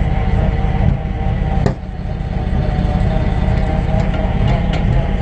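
Tow truck engine idling with a steady low rumble; the owner says the truck is loud and its muffler needs fixing. A single sharp click about a second and a half in.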